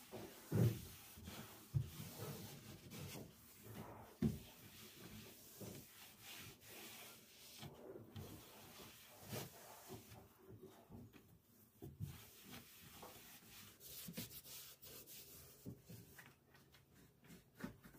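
Hand rubbing against a surface, with scattered light knocks; the strongest knocks come about half a second in and again at about four seconds.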